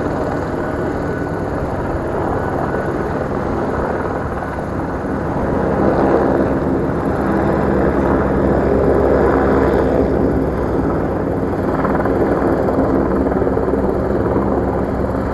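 Helicopter flying low overhead: a steady rotor chop and engine hum that grows louder about six seconds in and stays up.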